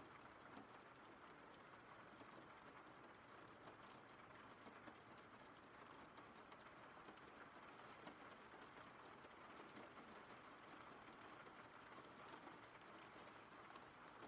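Faint, steady rain, an even hiss with scattered light drop ticks.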